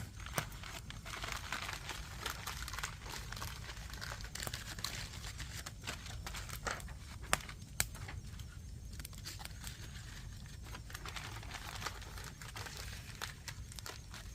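Wood fire crackling steadily, with scattered sharp pops, the loudest two in quick succession about halfway through, over a low steady rumble.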